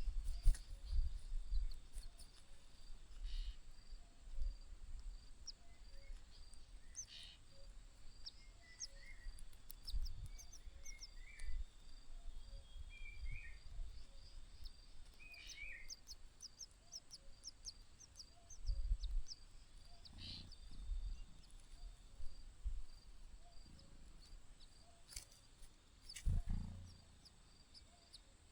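Scattered short, high bird chirps and a few brief call notes, over intermittent low bumps and rumbles. The loudest low bumps come around 19 to 21 seconds in and again near the end.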